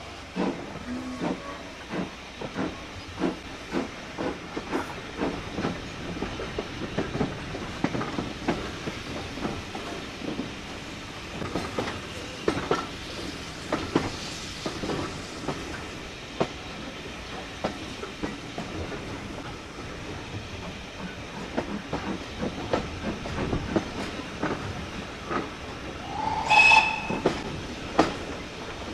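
Railway carriage running along jointed track, its wheels clicking over the rail joints in an irregular run of knocks. Near the end a train whistle gives one short, loud blast.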